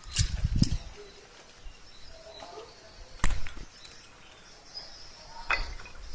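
Faint high chirps of small birds, broken by a few sharp taps and low bumps of handling noise: one pair near the start, one a little past the middle and one near the end.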